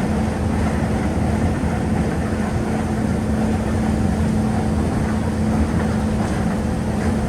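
Snowdon Mountain Railway rack train running, heard from inside the passenger carriage: a steady running drone with a constant low hum.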